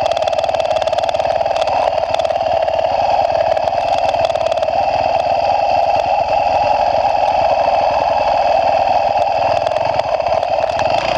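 Motocross bike engine running steadily.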